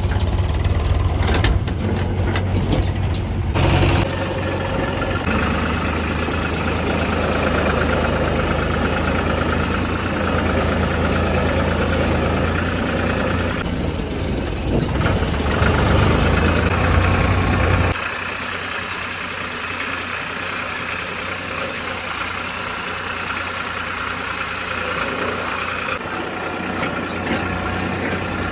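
Heavy diesel earth-moving machinery running steadily, with a strong deep hum. About eighteen seconds in, the deep hum drops away suddenly, leaving a quieter, lighter engine sound.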